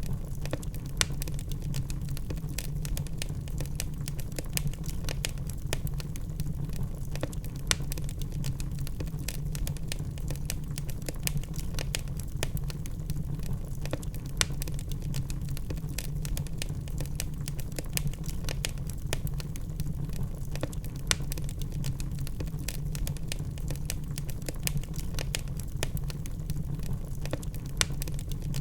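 Logs burning in a fireplace, crackling with frequent irregular sharp pops and snaps over a steady low rumble.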